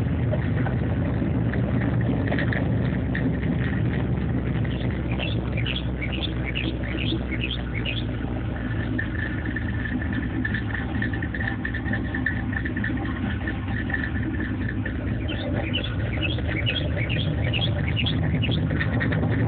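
2009 Mustang GT's 4.6-litre V8, fitted with aftermarket camshafts and exhaust, idling steadily. Two short runs of quick high chirps sound over it.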